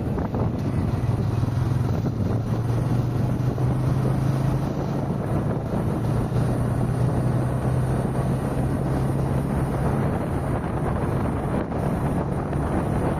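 Car driving at road speed: steady tyre and wind noise with a low hum that grows stronger about a second in and eases off near ten seconds.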